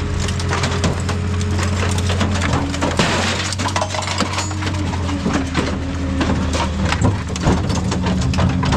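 Heavy machinery running with a steady engine hum while scrap metal clanks and crunches in many irregular impacts, with a denser burst of crushing about three seconds in.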